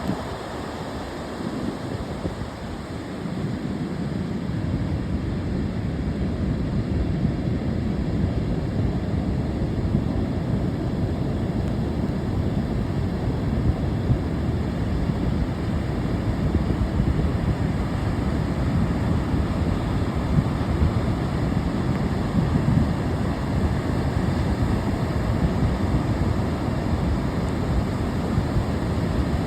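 Ocean surf breaking, heard as a steady low rumbling wash mixed with wind buffeting the microphone.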